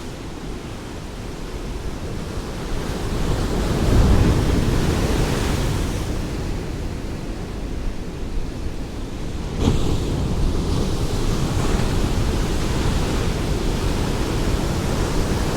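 Ocean waves breaking and washing on a shore: a steady rushing surf that swells about four seconds in and again with a sudden rise near ten seconds, as new waves break.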